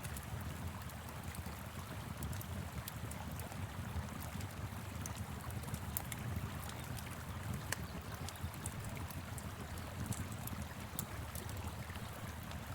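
A wood fire crackling with scattered sharp pops over the steady rush of a flowing river, with a low rumble underneath.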